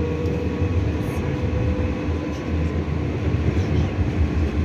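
Interior noise of a moving 81-740.1 metro train: a steady low rumble from the wheels and running gear, with a few faint steady tones above it.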